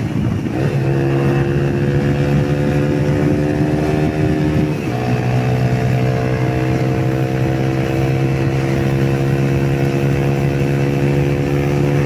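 Yamaha YBR125 motorcycle's single-cylinder engine pulling hard at high speed during a top-speed run, its pitch climbing slowly. About five seconds in there is a brief break and drop in pitch as it shifts up a gear, then it climbs again.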